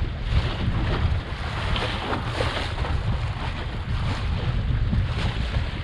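Wind buffeting the microphone in a stiff breeze, with water rushing and splashing along the hull of a small home-built sailboat under way.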